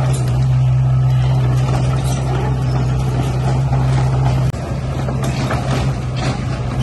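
Heavy diesel engine of earthmoving machinery running steadily with a deep hum; it drops a little in level about two-thirds of the way through.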